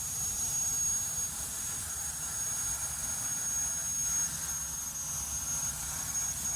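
CNC plasma torch cutting steel plate: a steady rushing hiss with a low rumble and a thin, high, steady whine, cutting off suddenly at the end.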